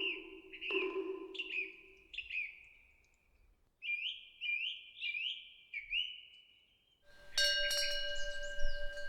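Small bird chirping, short repeated chirps about two a second. A single knock on a Buddhist moktak (wooden fish) rings out and fades near the start, and a metal temple wind bell starts ringing about seven seconds in, its tones hanging on.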